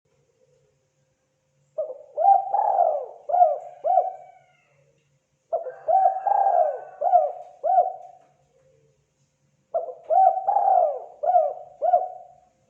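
Spotted dove calling: three cooing phrases about four seconds apart, each a quick run of four or five low coos.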